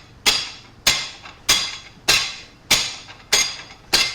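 Hammer blows on metal at a steady pace, seven strikes about six-tenths of a second apart, each with a short metallic ring.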